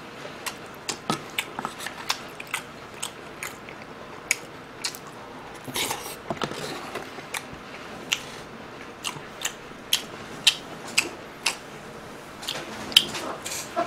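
Close-miked chewing of crispy Korean fried fritters: irregular sharp crunches and wet mouth clicks, a few each second.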